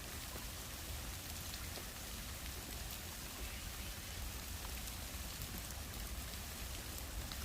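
Steady rain falling on the foliage of a bamboo grove: an even hiss with scattered drip ticks.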